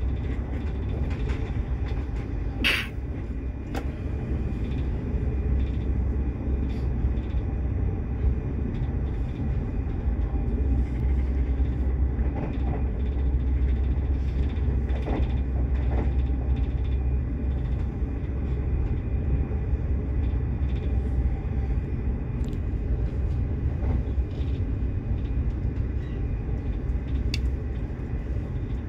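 Passenger train running at speed, heard from inside the carriage: a steady low rumble of the wheels on the track, with one sharp click a few seconds in and a few fainter ticks.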